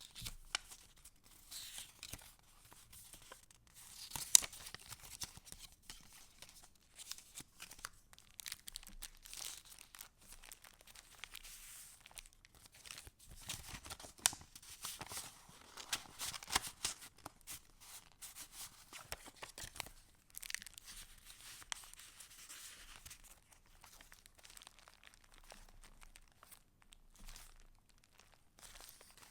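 Paper rustling and crinkling as the pages and paper pieces of a handmade junk journal are handled and turned, with many small ticks and taps and one sharp snap about four seconds in.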